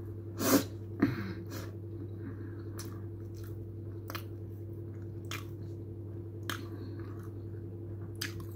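A person chewing a mouthful of chicken shawarma, with scattered wet mouth clicks and smacks every second or so, the loudest about half a second in, over a steady low hum.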